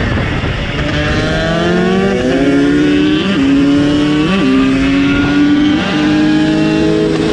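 Two-stroke KTM SX supermoto engine accelerating through the gears: the pitch climbs, then drops back at each of four quick upshifts before holding steady near the end.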